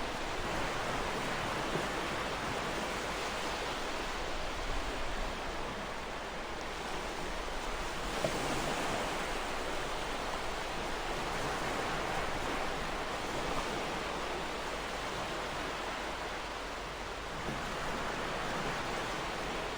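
Ocean surf on a shore: a steady rushing wash of waves that swells and eases only slightly.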